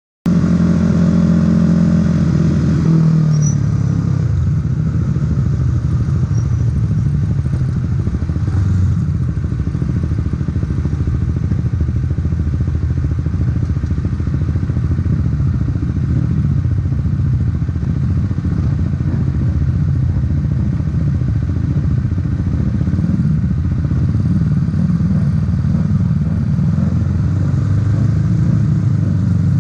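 Supersport 300 racing motorcycle engine running continuously. It holds steady revs for about the first three seconds, then changes to a dense, rough running sound that carries on to the end.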